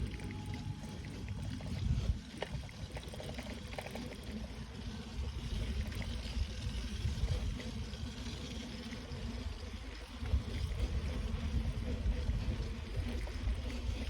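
Wind buffeting the microphone of a moving bicycle in uneven gusts, easing off briefly about two seconds in and again about ten seconds in.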